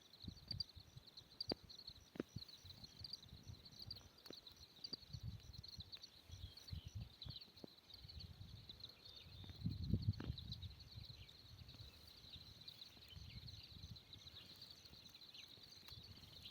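Faint forest ambience: a steady, high, pulsing chirring of insects, with scattered sharp clicks and low irregular thumps of something being handled close by, heaviest about ten seconds in.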